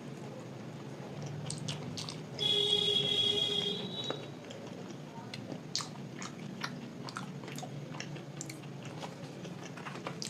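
Close-miked chewing and wet mouth clicks of someone eating luchi with vegetable curry. About two seconds in, a loud high-pitched tone sounds for about a second and a half, then stops.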